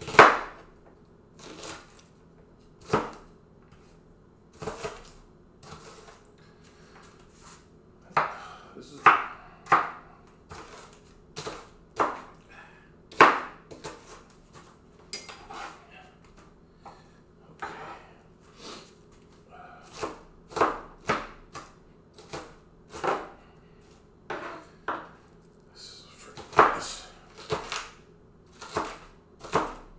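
Kitchen knife chopping an onion on a cutting board: slow, uneven chops that come singly or in quick pairs, at about one or two a second.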